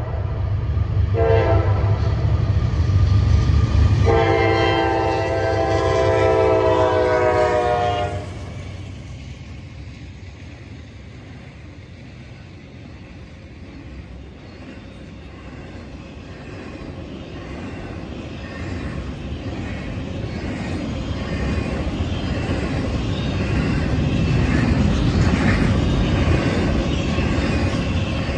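Diesel locomotive air horn blowing at a grade crossing: a blast ending right at the start, a short blast about a second in, then a long blast from about four to eight seconds, the close of the long-long-short-long crossing signal. Under it runs a heavy engine rumble. After the horn the sound falls off, then the intermodal freight cars roll past with wheel clatter and rumble that grow louder toward the end.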